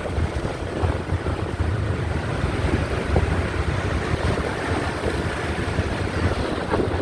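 Wind rumbling steadily on the microphone of a moving motorbike, over the noise of the ride.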